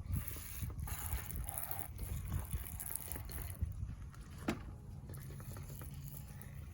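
Water spraying from a garden hose onto a motocross bike, rinsing the cleaner off the number plate; the spray hiss eases off about two-thirds of the way through.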